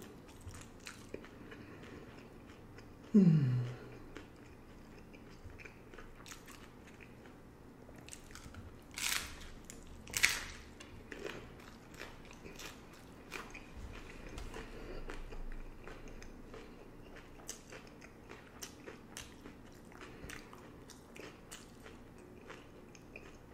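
Crunching and chewing of hard-shell beef tacos: small crackly crunches throughout, with two louder crunchy bites about nine and ten seconds in. A brief falling vocal sound about three seconds in.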